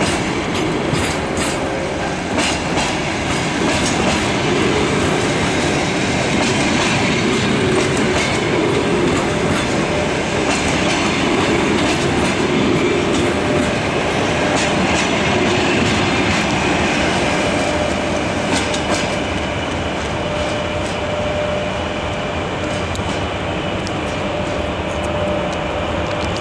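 Passenger coaches rolling past, their wheels clattering over rail joints with a steady run of clicks. It fades a little in the last third as the last coach passes and the train draws away.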